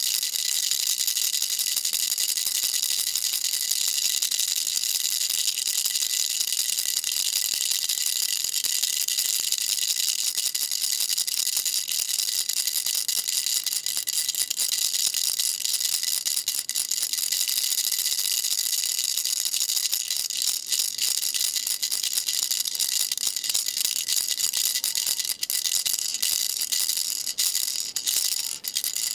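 Baby rattle shaken without pause: a fast, dense, high rattling, with a few brief breaks in the last third.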